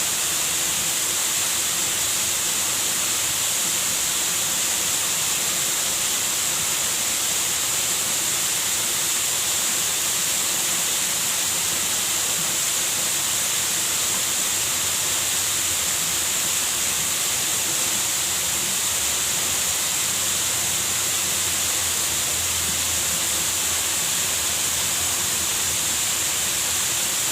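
Waterfall rushing steadily: an unbroken hiss of falling water.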